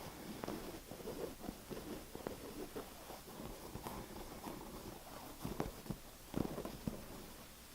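Tapping and scratching on a surface: quick, irregular soft taps mixed with scratchy rubbing, with a few sharper taps about five and a half and six and a half seconds in.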